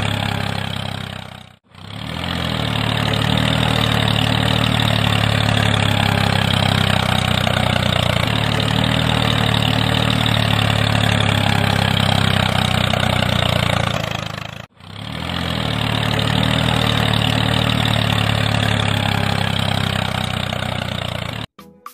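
A DIY mini tractor's motor running steadily with a low, even hum. It cuts out briefly twice, about a second and a half in and again near fifteen seconds, and comes back each time, then stops just before the end.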